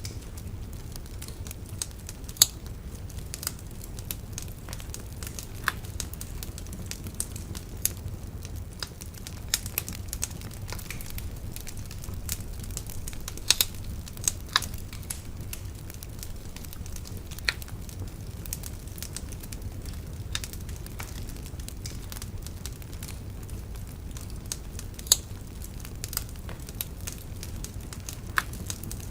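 Wood bonfire burning with a steady low rumble and irregular crackling, sharp snaps and a few louder pops scattered throughout.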